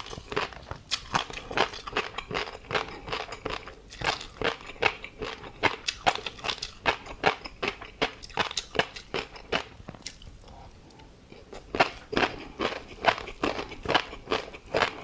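Close-miked chewing of tobiko (flying fish roe) and crunchy seafood topping: a dense run of crisp pops and crunches, with a brief lull a little over two-thirds of the way through.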